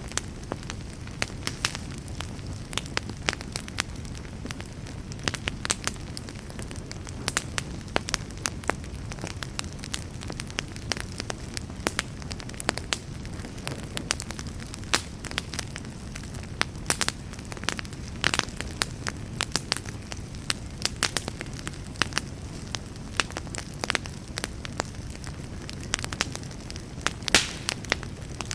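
Campfire burning with a steady low rumble of flames and frequent sharp crackles and pops at irregular intervals.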